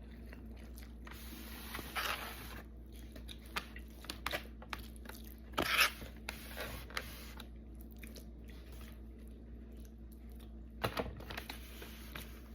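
A person eating close to the microphone: scattered bites and chewing, with a louder bite about two seconds in, another about six seconds in and a few more around eleven seconds.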